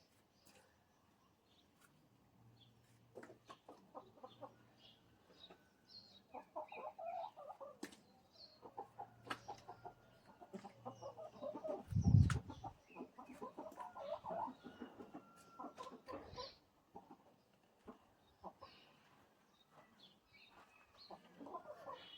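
Domestic chickens clucking, with many short taps and knocks scattered throughout and one louder thump about halfway through.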